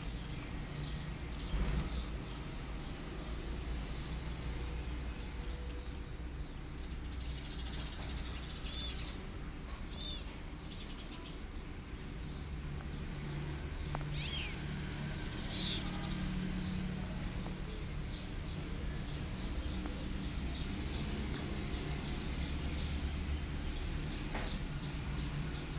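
Small birds chirping in short spells, with a low steady hum beneath.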